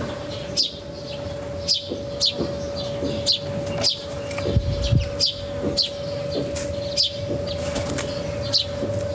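Small birds chirping over and over, short sharp falling calls about one or two a second, over a steady hum. A brief low rumble comes about halfway through.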